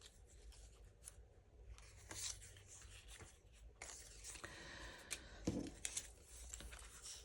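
Faint rustling of paper and card pieces being handled and sorted, with a few light clicks and a soft knock about five and a half seconds in.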